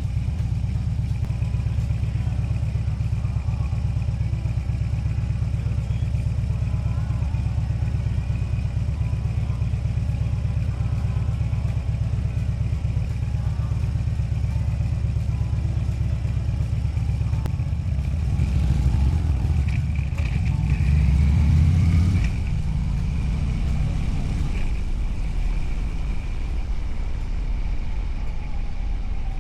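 Motorcycle engine running steadily, growing louder for a few seconds about two-thirds of the way in.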